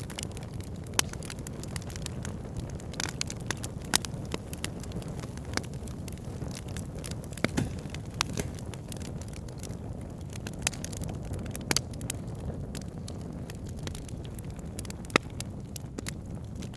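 Wood fire burning in a fireplace: a steady low rumble of flames with irregular crackles and sharp pops, a few louder snaps scattered through.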